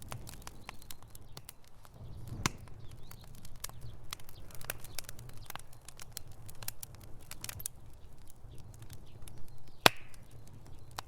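Wood fire in a fireplace crackling: irregular sharp pops and snaps over a low steady rumble of the burning, with one louder pop near the end.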